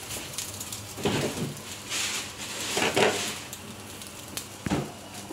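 Pieces of food sizzling in a dry wok with no oil or water, the fizz swelling and fading about once a second, with a couple of light clicks near the end.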